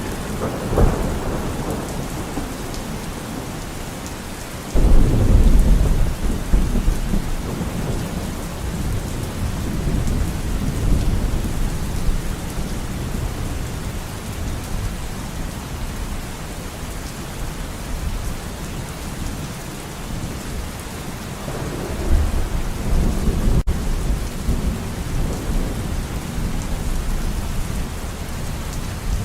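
Steady heavy rain with rolling thunder: a loud crack-and-rumble about five seconds in that dies away slowly, and another rumble near the end.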